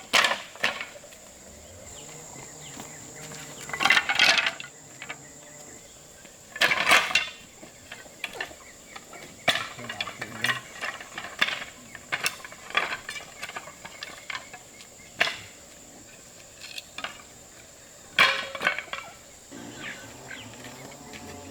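Irregular sharp knocks and clinks, a few louder strikes among many lighter ones, over a steady high-pitched insect buzz.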